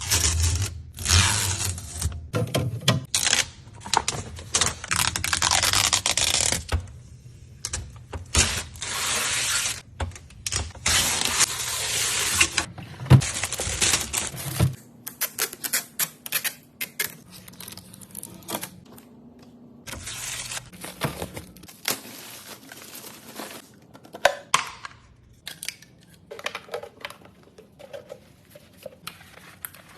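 Plastic packaging being pulled, crinkled and torn off a new fridge in loud rustling bursts. About halfway through it gives way to quieter handling, with light clicks and rattles of plastic parts.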